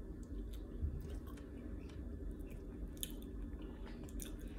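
Close-up chewing and mouth sounds of someone eating a burger and fries, with soft, scattered clicks and smacks.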